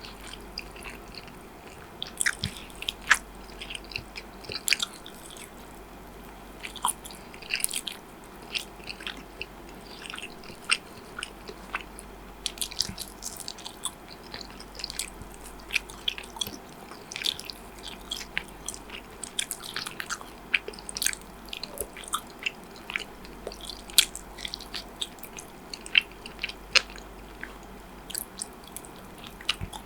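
Close-miked eating: a person biting and chewing food, with frequent short, sharp clicks at irregular intervals.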